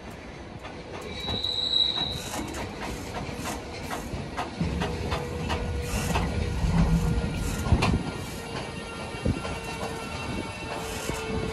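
A DSB train of IC1 passenger carriages moving slowly through the station, its wheels clicking over rail joints and points, with a brief high wheel squeal about a second in. From about four and a half seconds in a low rumble and a steady hum build, loudest near the eight-second mark.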